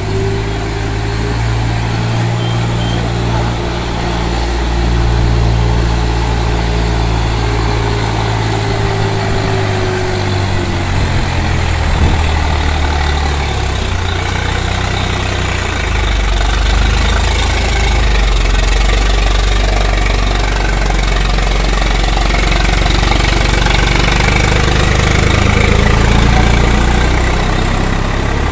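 Swaraj 744 XT tractor's diesel engine running steadily while pulling a loaded sugarcane trailer. About halfway through the engine note shifts and gets a little louder.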